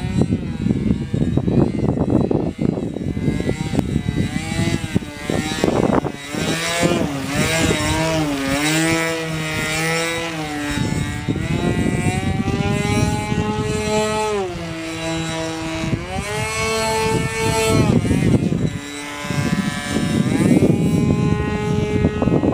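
O.S. .46AX two-stroke glow engine of an RC model airplane running in flight, its pitch rising and falling as the throttle is worked and the plane passes, with wind rumbling on the microphone.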